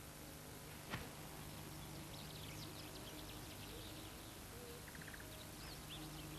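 Faint savanna ambience: scattered short bird chirps over a steady hiss and low hum, with a single click about a second in.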